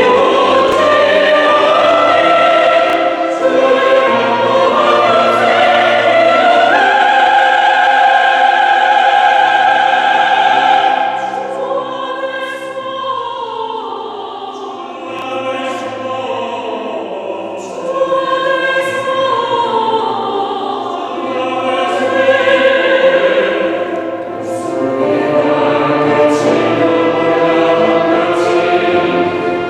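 Church choir singing a sacred anthem in sustained harmony. It drops to a softer passage about eleven seconds in and swells back to full voice about eighteen seconds in.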